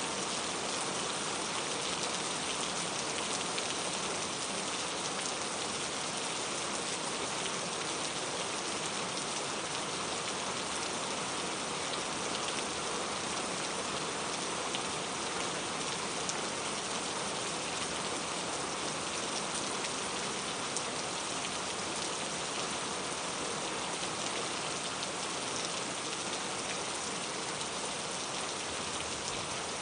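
Steady rain falling, an even hiss of many drops with faint individual drips pattering on a surface.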